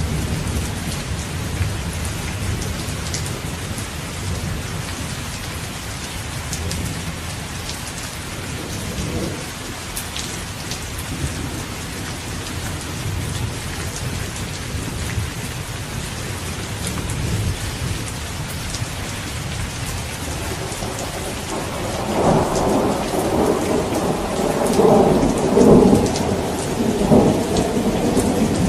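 Steady rain falling with a low, continuous rumble of distant thunder; about two-thirds of the way through, a louder roll of thunder swells and rumbles on to the end.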